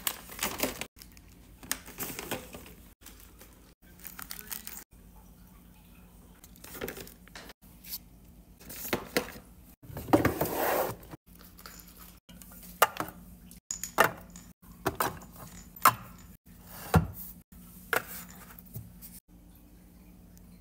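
Pet supplies being handled and put away: packaging rustles and crinkles, with sharp clicks and taps of cans and containers set down, coming thick in the second half.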